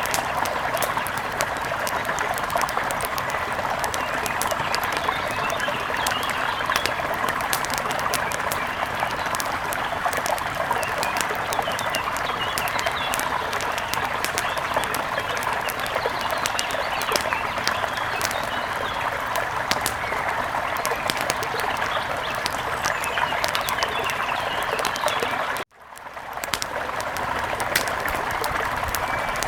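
Steady rush of flowing river water, with small birds chirping and the light crackle of a fire. The sound cuts out for an instant about three-quarters of the way through and fades back in.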